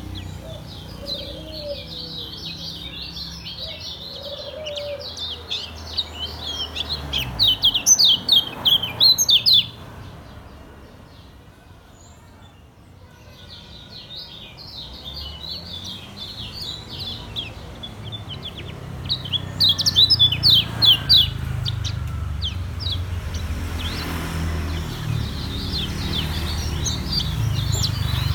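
A kecial kuning (yellow white-eye) singing a rapid run of high, sharp chirps. The song comes in two long spells, broken by a pause of a few seconds near the middle. A low hum runs underneath.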